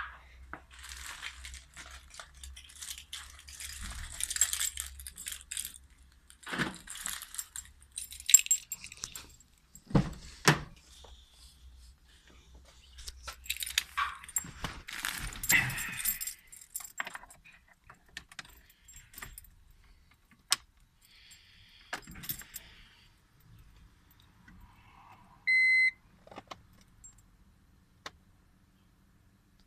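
Car keys jangling and being handled, with several sharp clicks and knocks. A short electronic beep sounds about three quarters of the way through.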